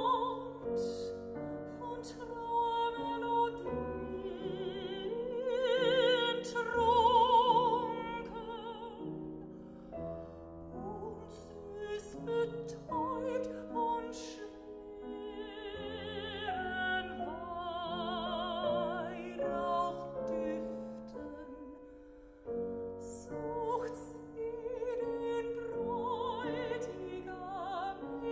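Classical art song: a mezzo-soprano singing long notes with a wide vibrato over piano accompaniment.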